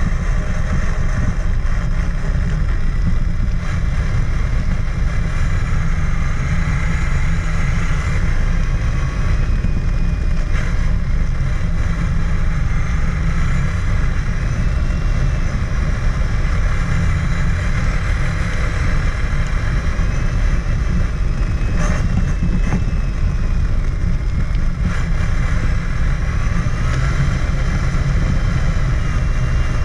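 Traxxas Summit RC truck driving, heard from a camera mounted on its body: a steady low rumble of wind and terrain on the microphone. Over it the electric motor and gears whine, rising and falling in pitch with the throttle, with a few sharp knocks along the way.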